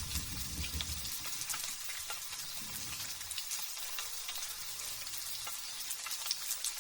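Light drizzle: a steady fine hiss with scattered small drop ticks. The tail of a low thunder rumble dies away about a second in.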